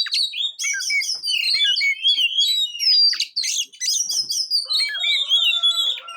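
Oriental magpie-robin (kacer) singing a fast, unbroken stream of varied whistles, chirps and slurred notes.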